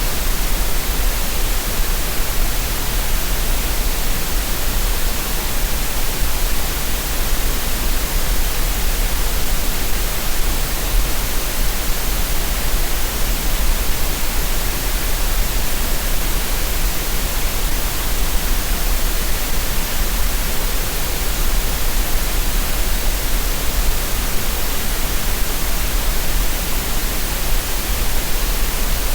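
Green noise: a steady, unbroken synthetic hiss with a deep rumble at the very bottom, unchanging throughout.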